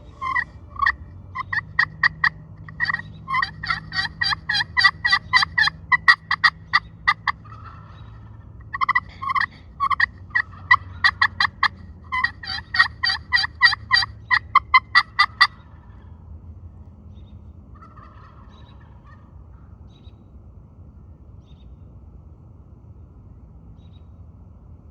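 Wild turkeys calling in two long runs of rapid, closely spaced notes, with a short break between them. The calling stops about fifteen seconds in.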